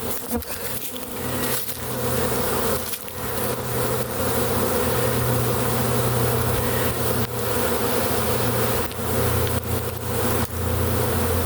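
Steady, dense buzzing hum of a honey bee swarm at close range as the bees walk into a hive box, with a few brief knocks in the first three seconds.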